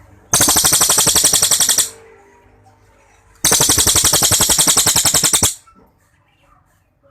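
A cililin, an Indonesian songbird, giving two long, loud, rapid trills, each a fast string of even notes about thirteen a second. The first lasts about a second and a half, and the second about two seconds after a short pause.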